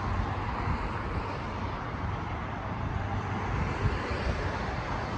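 Amtrak Keystone Service train running in the distance along the line, heard as a steady, even rumble.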